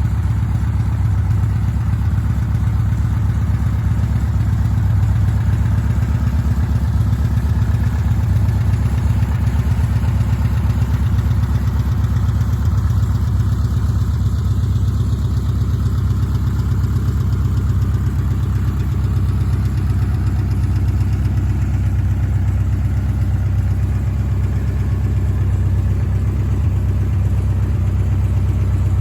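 Volkswagen trike's air-cooled 1600 flat-four engine idling steadily.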